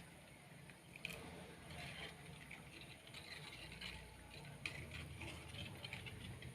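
Faint scraping and light clicks of a ladle stirring thick milk payasam with rice ada in an uruli, a few sharper knocks of the ladle against the pot, about a second in and near the end.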